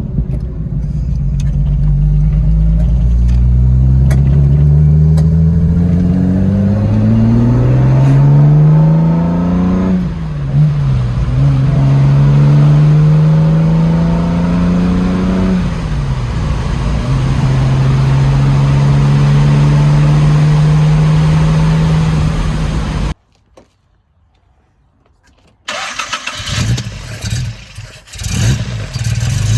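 Jaguar E-Type straight-six engine pulling through the gears. The revs climb, fall at a gear change about ten seconds in, climb again, and fall at a second change around sixteen seconds. The engine then holds a steady cruise. Near the end the sound cuts out for a couple of seconds, then uneven engine sound returns.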